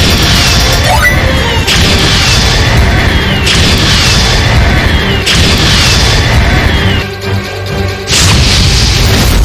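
Online slot game music and sound effects: a loud electronic effect repeats about every second and three-quarters, each time ending in a short falling tone, with a brief drop-off about seven seconds in.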